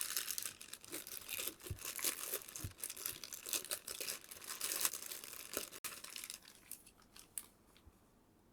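Figure packaging being handled and pulled open: dense crinkling and rustling with sharp crackles, thinning out after about six seconds.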